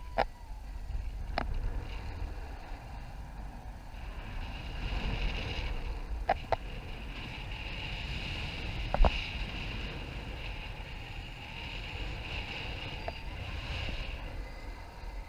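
Wind rushing over the microphone in flight, with a hiss that comes up about four seconds in and fades near the end. Several sharp taps or clicks are scattered through it, the loudest about nine seconds in.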